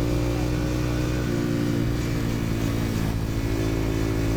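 Dirt bike engine running steadily under way, its note shifting briefly about a second and a half in.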